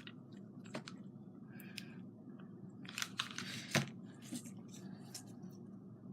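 Craft materials being handled on a work table: scattered small clicks and taps, with a brief rustle about three seconds in and a sharp click just before four seconds.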